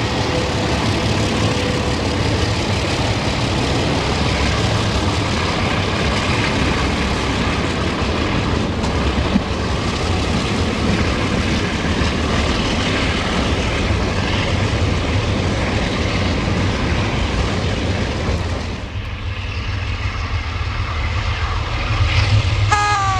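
Diesel locomotive engine running, a loud steady drone that eases briefly about nineteen seconds in, with a short pitched tone near the end.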